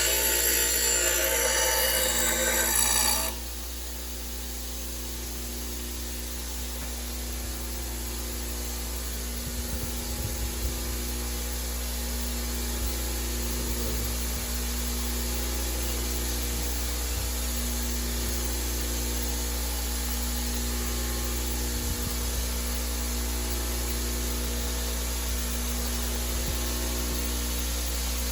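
A lawnmower blade's edge being sharpened: metal grinding on metal for about the first three seconds, then it stops suddenly and a steady low hum is left.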